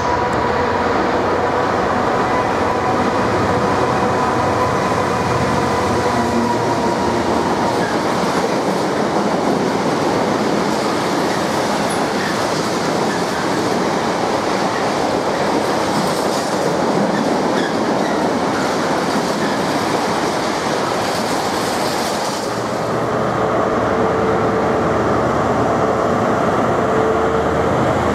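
A Class 66 diesel locomotive passes through at speed hauling a freight train of empty bogie flat wagons, the wagon wheels running over the rails with a continuous clatter. About 22 seconds in, this gives way to the steady engine hum of an HST Class 43 diesel power car.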